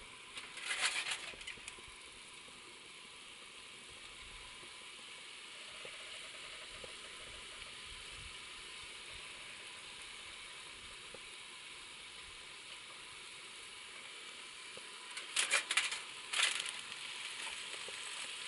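Beef, onions and peppers sizzling on a two-burner Camp Chef propane stove, a steady hiss. Short bursts of clatter come about a second in and twice near the end.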